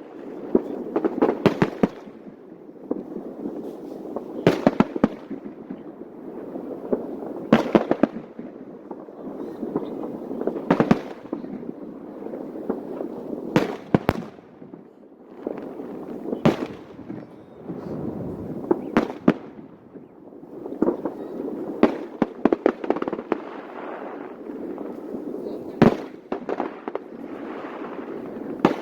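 Aerial fireworks bursting: sharp bangs every two to three seconds, some in quick crackling clusters, over a steady murmur of crowd voices.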